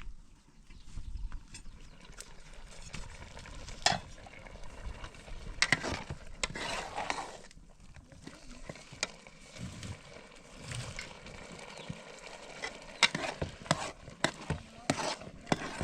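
Kitchen utensils stirring, scraping and clinking against cookware, with scattered sharp clicks and knocks.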